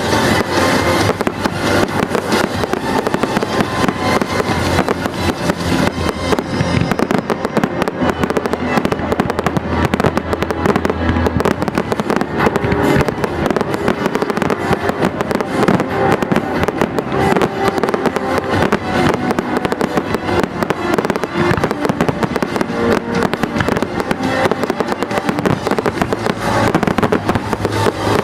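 Aerial fireworks going off in a dense, continuous barrage of bangs and crackles, with music playing underneath.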